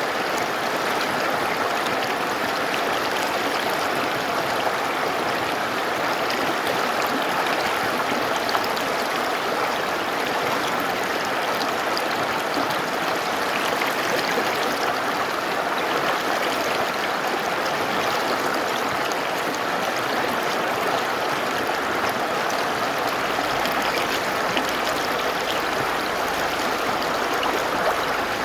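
Mountain river rushing and splashing over rocks, a steady even water noise.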